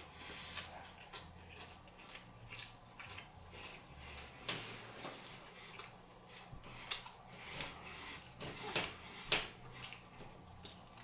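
A person eating: irregular crisp clicks and smacks of chewing and of cutlery on a plate, with a few louder ones in the second half.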